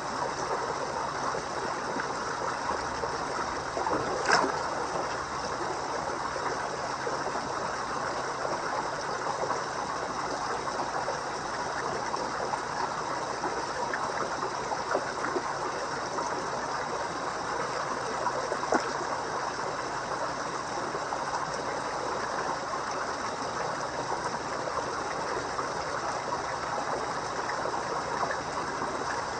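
Fish pond water trickling and splashing steadily, with a brief sharper splash about four seconds in.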